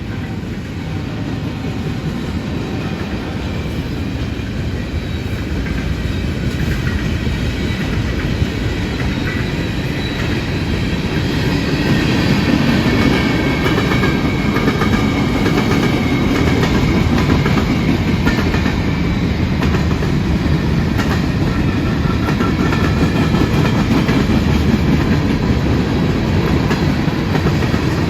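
CSX freight train's cars rolling past at speed: a steady rumble with the clatter of wheels over the rails, growing louder over the first dozen seconds and then holding.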